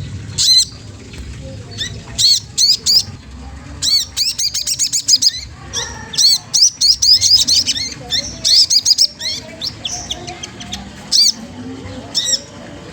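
Sogon trotol songbird calling in bursts of quick, high, sharp chirps, several clusters spaced a second or two apart. It is a challenging call, used by keepers to provoke rival birds into singing.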